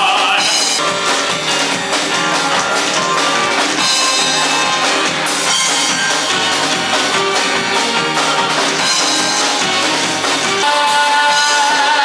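Upbeat live band music with drum kit and guitar playing steadily.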